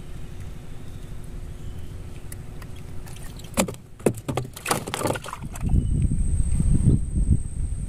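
Small boat motor running steadily, with a few sharp knocks and clatters in the middle. Near the end the sound grows louder into a heavy low rumble with a thin high whine, as the boat gets under way with wind buffeting the microphone.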